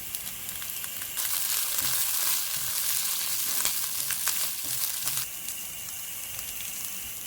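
Onions, chilies and fresh mint and coriander leaves sizzling in hot oil in a pan as they are stirred. The sizzle grows louder about a second in and eases back about five seconds in, with a few clicks of stirring through it.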